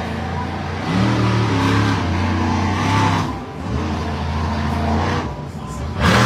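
Monster truck engine revving hard, building about a second in and holding, easing briefly partway through, then pulling again. Sharp louder bursts come right at the end.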